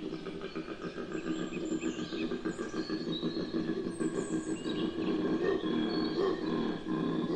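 A steady low drone with short bird chirps scattered over it.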